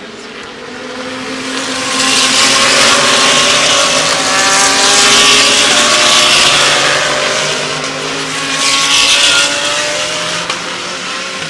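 GT3 race cars racing past at full speed, several engines sounding at once with shifting pitch. The sound swells about two seconds in, stays loud through the middle, and swells again briefly near the end.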